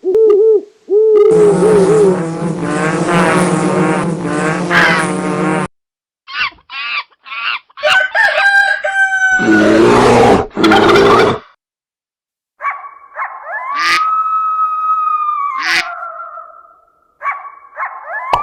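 A string of separate animal and bird calls played one after another with short silent gaps: a long call lasting about four seconds, a few short chirps, and gliding calls near the end.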